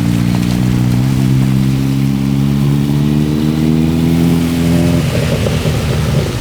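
Suzuki Hayabusa's inline-four engine running under load, its pitch stepping up about a second in and then climbing slowly, until the sound changes abruptly near the end.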